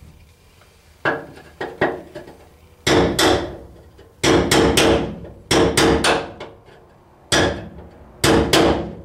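Hammer beating a bent sheet-metal lip on a 1985 Chevy K10 pickup cab back down. Sharp strikes come in quick clusters of two to four, each with a ringing metal tone, with short pauses between clusters.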